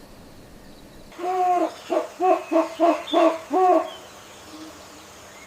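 An owl hooting: a rhythmic run of about seven hoots starting about a second in, the first and last drawn out and the middle ones short.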